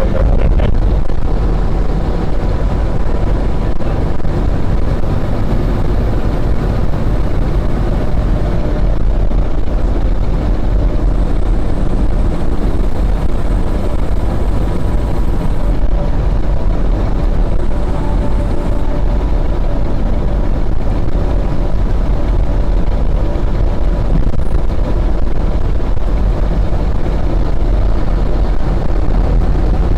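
Fire engine driving, heard from inside the cab: a steady, loud drone of engine and road noise.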